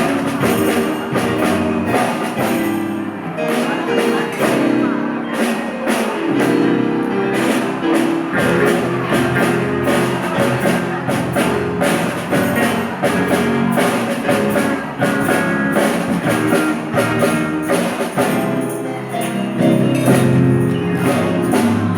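Band music with a steady beat and pitched instruments playing continuously.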